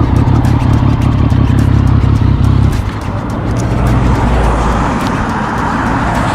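Triumph Street Triple 675 inline-three engine running under wind noise. About three seconds in its steady low note drops away, leaving wind and road noise, as the engine cuts out on an empty fuel tank.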